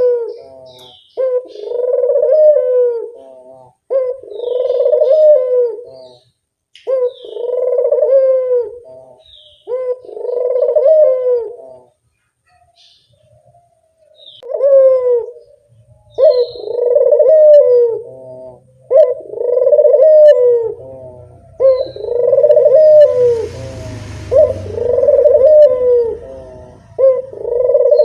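Burung puter (Barbary dove) cooing, its phrases repeating about every two and a half seconds with a short pause about halfway through. Faint high chirps of small birds sit above it, and a hiss with a low rumble joins for a few seconds near the end.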